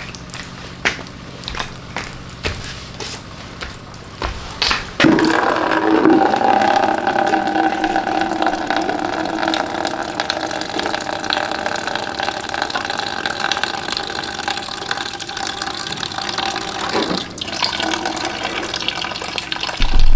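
A few light knocks and clicks, then, about five seconds in, water starts running steadily and filling a container. It keeps flowing with a steady ringing tone almost to the end.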